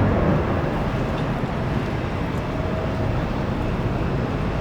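Jet engines of an Airbus A330 at takeoff thrust: a steady, loud rumble with little change in pitch.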